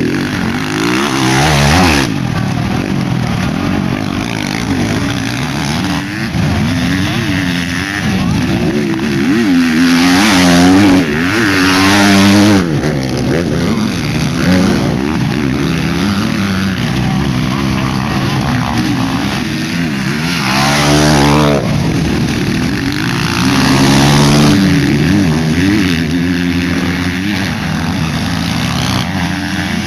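Several motocross bikes racing, their engines revving up and down as they accelerate and shift. Louder swells around ten seconds in and again around twenty seconds in, as bikes pass close by.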